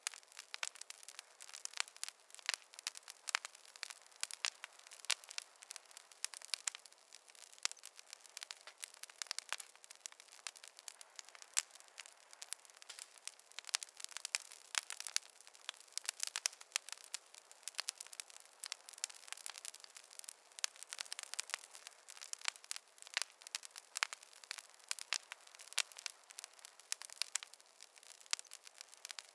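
Campfire crackling: a dense, irregular stream of small pops and snaps over a faint hiss, with no low rumble.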